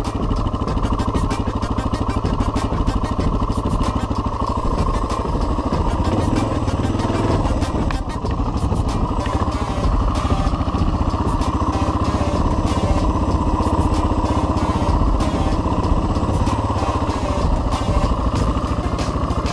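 Single-cylinder dual-sport motorcycle engine running steadily under way, its rapid firing pulses constant throughout.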